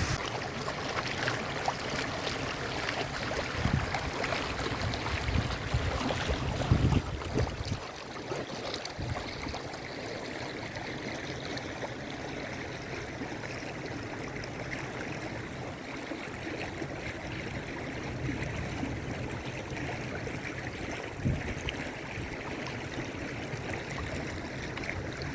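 Rainwater rushing after heavy rain, a steady even noise. Wind buffets the microphone with low rumbling gusts for the first eight seconds or so.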